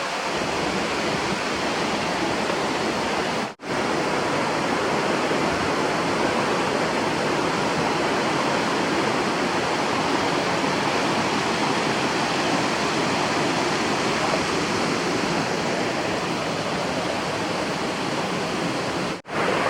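River water rushing over rocks, a steady, even roar of flowing water, broken twice by a split-second drop-out.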